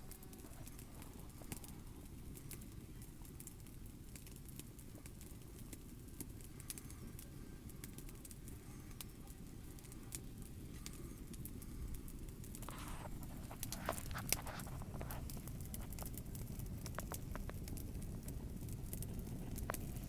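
Campfire of wood crackling, with irregular sharp pops and snaps scattered throughout over a low steady rumble. It grows a little louder about two-thirds of the way in, with one louder snap.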